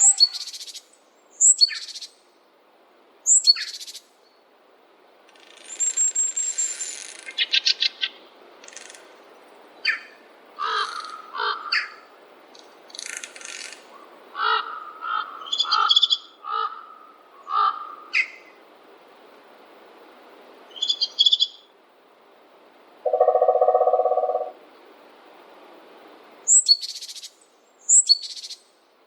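Several songbirds calling in a forest, with short, high down-slurred calls repeating every couple of seconds near the start and the end. A rapid trill comes around seven seconds in, and a lower, steady call sounds briefly about twenty-three seconds in.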